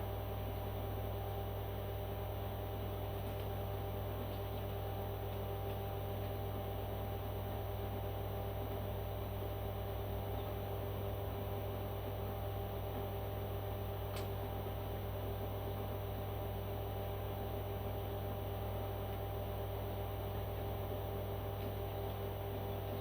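Steady low electrical hum that does not change, with one faint click about fourteen seconds in.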